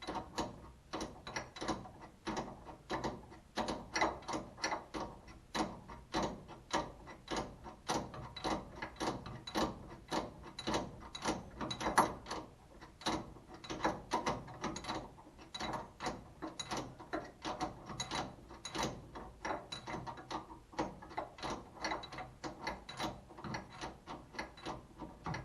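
Hand socket ratchet clicking in a steady run of quick, repeated strokes, as when bolts are being run in or backed out.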